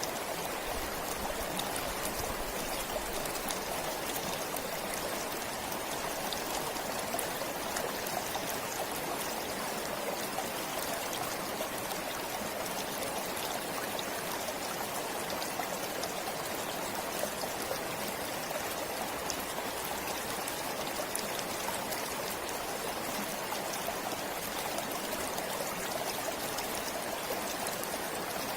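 Stream water flowing steadily, a continuous rushing with fine trickling and splashing over the top.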